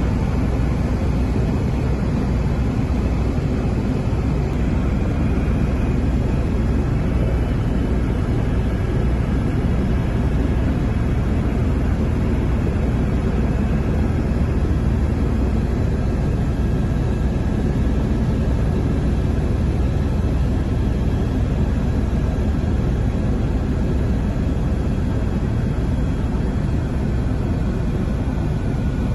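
Écureuil helicopter's turbine and rotor running steadily, a loud even drone heard from inside the cabin.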